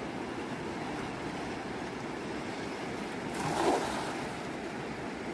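Fast, turbulent river water rushing steadily, with one brief louder burst about three and a half seconds in.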